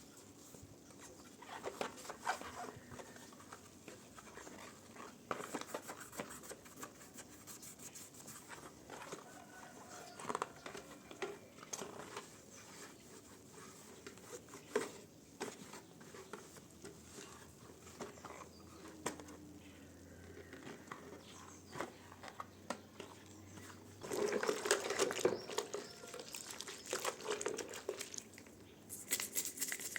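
Rubbing and scrubbing by hand with many small clicks and knocks, and a louder stretch of scraping about 24 seconds in.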